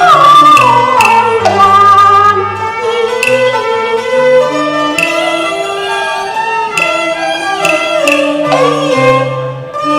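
Cantonese opera accompaniment: a bowed fiddle plays a gliding, ornamented melody over held low notes that shift step by step, with a few sharp percussive strokes.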